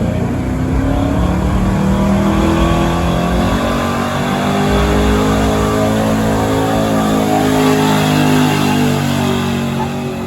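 Stock gasoline pickup truck engine running at high revs under heavy load, pulling a weight-transfer sled on blacktop. The engine note holds loud and fairly steady, wavering a little, and starts to fall away near the end.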